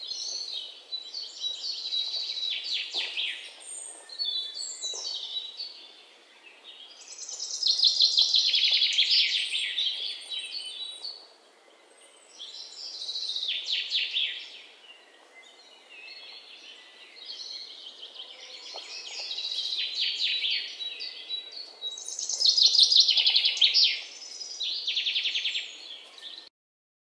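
Songbirds singing: bright chirps and rapid trilled phrases, louder bursts coming every few seconds, cutting off suddenly near the end.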